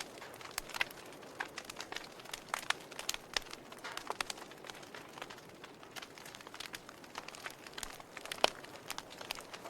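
Wood fire in a fireplace crackling, with irregular pops and snaps over a soft hiss and one louder pop near the end.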